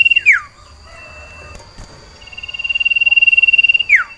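Male cipoh sirtu (common iora) singing its long call: a fast, even high trill that swells in loudness for about two seconds and ends in a quick falling note. The end of one call comes right at the start and a full call follows about two seconds in, the song of a caged male in breeding condition calling for a female.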